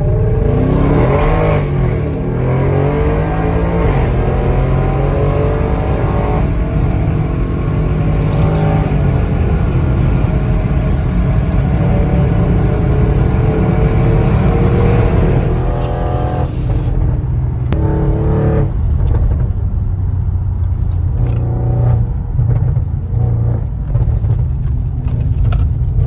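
Audi RS6 engine heard from inside the cabin, accelerating hard through the gears: its pitch rises, breaks at each upshift and climbs again. About two-thirds of the way through it eases off, with a few short blips, over steady road and wind noise.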